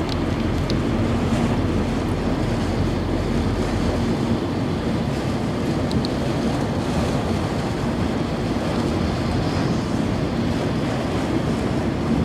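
Steady rush of heavy storm rain and road noise, heard from inside a car driving through the downpour, with a low hum underneath and a few faint ticks.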